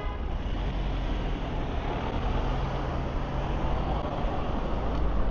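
Road traffic, with a vehicle engine running close by: a steady low hum over the noise of passing traffic that fades out about four seconds in.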